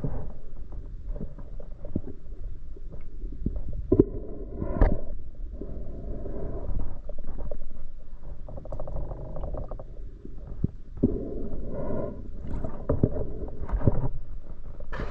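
Muffled underwater noise picked up by a submerged camera: water movement and bubbling with scattered clicks and knocks, and a few short louder surges.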